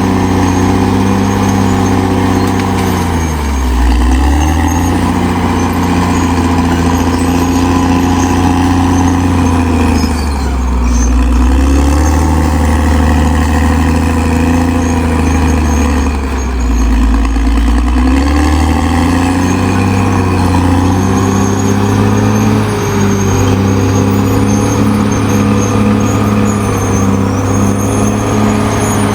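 Caterpillar D6R XL bulldozer's diesel engine running hard, its pitch dropping three times as it lugs under load and climbing back each time.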